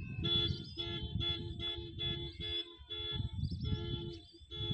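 Car horn sounded in a quick run of short toots, about four a second, then a few longer toots near the end, two notes sounding together.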